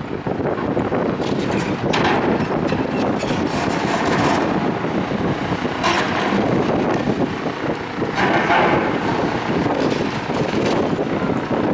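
Strong wind buffeting the microphone in gusts, a dense rushing noise that swells several times.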